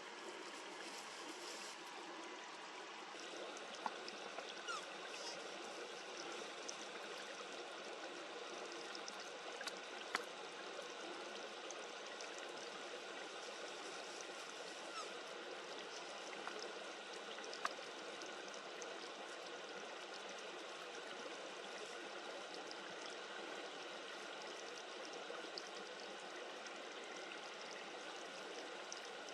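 Steady rush of running water, like a nearby stream, with a few sharp clicks standing out above it, three of them louder than the rest.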